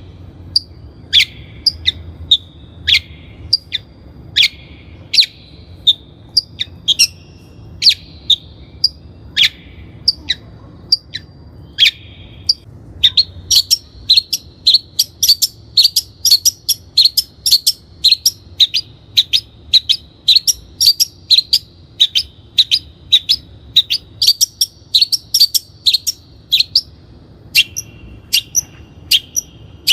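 Long-tailed shrike calling: a run of short, sharp, harsh notes, about one a second at first, quickening to two or three a second from about halfway through.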